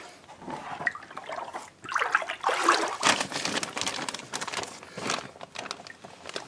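Basement floodwater, several inches deep, sloshing and trickling, with water running and dripping off things being lifted out of it; loudest from about two seconds in through the middle.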